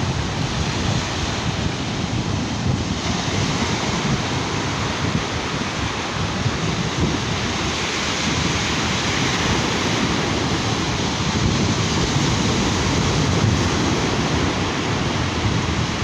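Sea surf washing onto a beach, a steady wash of noise that swells a little past the middle, with wind buffeting the microphone.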